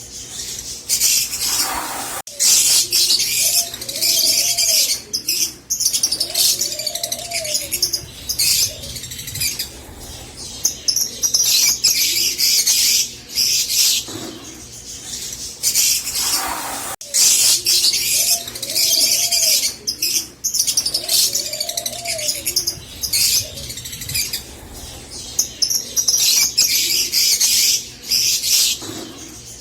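Rosy-faced lovebirds chattering in a busy stream of shrill, high chirps and squeaks, with some lower arched calls mixed in. The same stretch of chatter starts over about halfway through.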